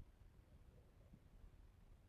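Near silence: low background rumble with a faint soft knock or two.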